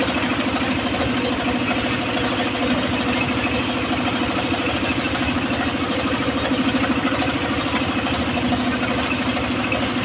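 The engine of a homemade circular-saw rig running steadily at an even speed.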